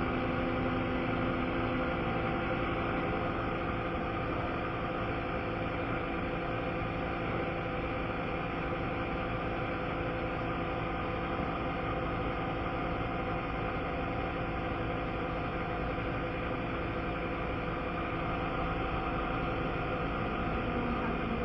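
A motor or engine running steadily at an even pitch, a constant drone with no change in speed.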